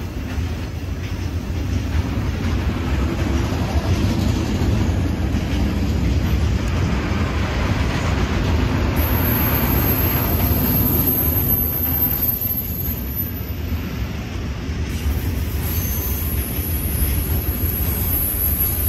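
Freight train rolling past, a steady rumble of wagons on the rails with a faint high thin squeal at times.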